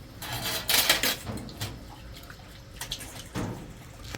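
Water splashing in uneven bursts at a sink, with light clicks and knocks.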